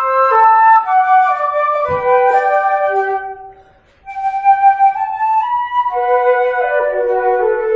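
A flute duo playing a slow Japanese lyrical-song melody in two-part harmony. The phrase ends a little over three seconds in, a short breath-length pause follows, and the next phrase begins at about four seconds.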